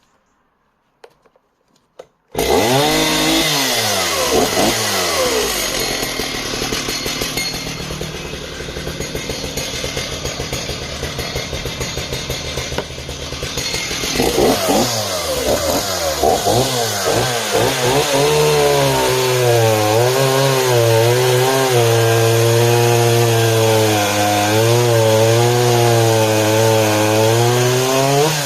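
Homelite 340 two-stroke chainsaw, cutting in suddenly about two seconds in at high revs and running under load through wood. Its pitch dips and recovers as the chain bites, then wavers up and down in the last stretch of the cut.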